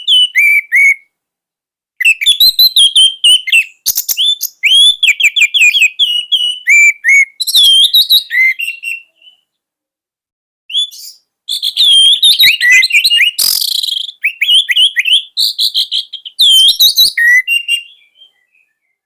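Orange-headed thrush singing a loud song of rapid, sweeping whistled notes and chattering phrases. The song comes in long runs broken by short pauses, with one harsher, rasping note in the second half.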